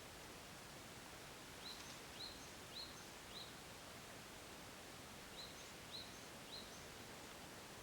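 Faint wild songbird repeating a short rising chirp, four times from about two seconds in and three more near the end, over a steady faint outdoor hiss.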